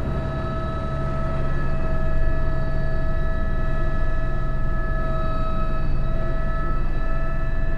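Airbus H125 single-engine helicopter heard from the cockpit in flight: a steady high turbine whine over the low, dense drone of the rotors, growing slightly louder about two seconds in.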